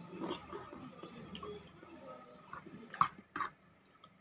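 Close-up chewing of a mouthful of soft boiled instant noodles. About three seconds in come a couple of sharp clicks of a metal fork against the plastic container as more noodles are picked up.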